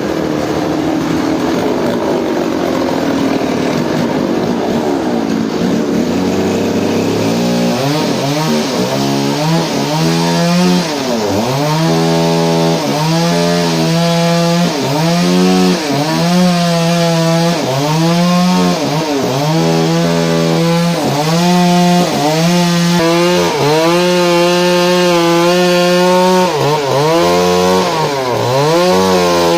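Engine-driven saw cutting into wood, running loud and steady. From several seconds in, its pitch dips sharply and recovers every second or two as the cut loads it down.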